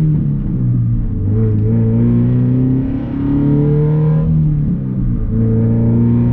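Scion FR-S 2.0-litre flat-four boxer engine pulling through a muffler- and resonator-delete exhaust while driving, loud and raspy. The engine note holds or climbs under throttle and dips briefly about a second in, near three seconds and again near five seconds, as the throttle comes off or the gears change.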